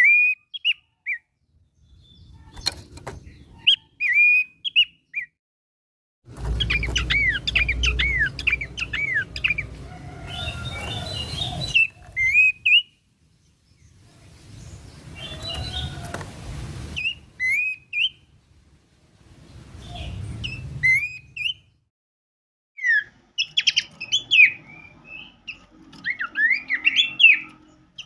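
Songbirds singing: rapid chirps and whistled notes that slide up and down, in short separate recordings spliced together with gaps of silence between them, some with a low background rumble. It is a 'masteran' song-tutor mix of several species, made for training cage birds to copy.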